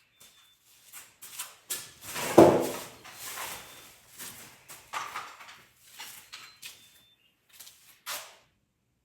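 Irregular knocks, clatter and rustling from parts and tools being handled, with one louder thump about two and a half seconds in.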